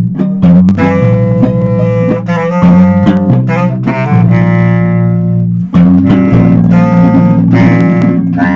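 Loose improvised jam on electric bass and guitar: plucked guitar notes and strums over held low bass notes that change pitch every second or two.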